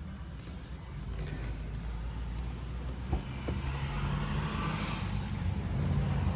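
A vehicle engine running with a low rumble that grows gradually louder, with a couple of small clicks a little past the middle.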